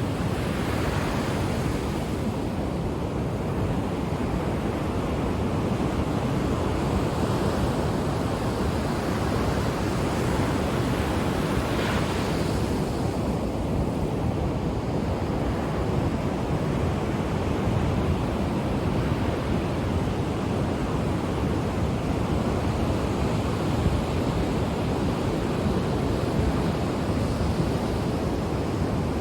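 Ocean surf washing steadily onto the shore, with waves breaking a little more brightly near the start and again about twelve seconds in.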